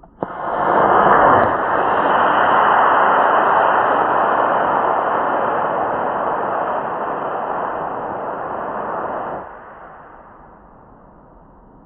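Model rocket launching on a C6 motor: a sharp pop, then a loud rushing whoosh that swells over the first second or so and slowly fades before dropping away about nine and a half seconds in.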